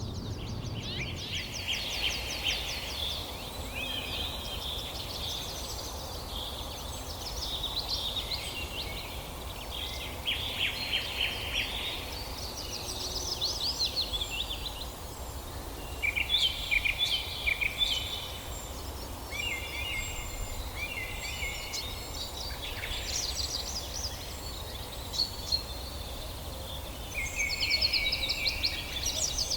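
Several songbirds chirping and trilling, with overlapping runs of quick notes, over a steady low rumble.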